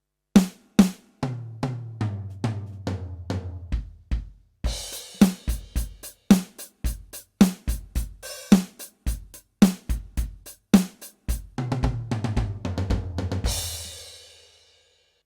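Yamaha DTX720K electronic drum kit's DTX700-series module sounds, played as a drum beat of kick drum, snare and toms with hi-hat and cymbals. It ends on a cymbal crash that rings out and fades.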